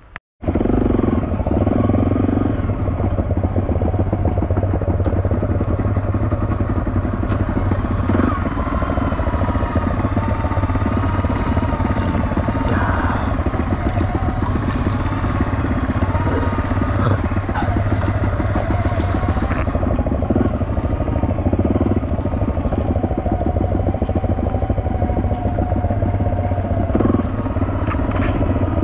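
Off-road trail motorcycle engine running as the bike rides a rough, overgrown track, heard from on the bike, its note wavering up and down with the throttle. It starts abruptly about half a second in, and from about twelve to twenty seconds in a hiss of tall grass brushing against the bike rides over it.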